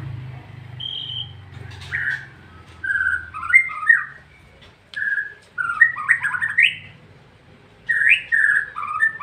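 White-rumped shama (murai batu) singing: phrases of loud, clear whistled notes mixed with quick rattling flourishes, several bursts with short pauses between them.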